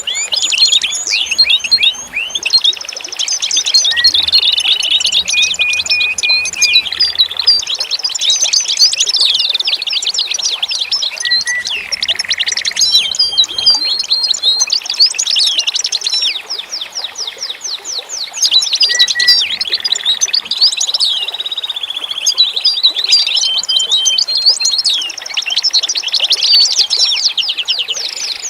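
Several songbirds singing at once in a dense chorus: rapid trills of quick repeated chirps, varied whistled phrases and short held notes, overlapping without pause.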